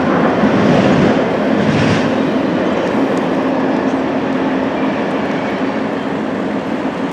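Intermodal freight train's container cars rolling past on the rails: a steady rumble with a low hum under it, slowly fading.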